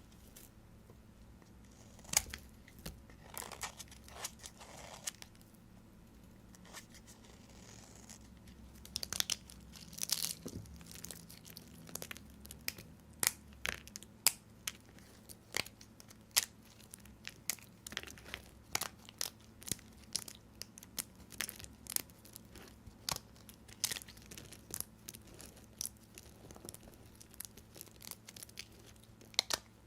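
Knife cutting through soap, with a run of sharp, crisp cracks and crunches at irregular intervals. They are sparse at first, then come about one or two a second through the second half.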